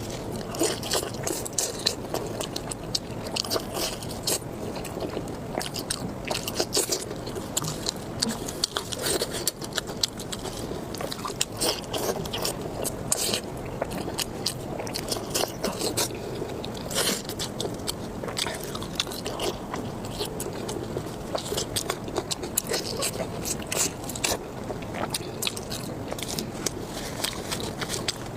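Close-miked eating sounds: crunchy bites and chewing, with many sharp crackling clicks running on steadily.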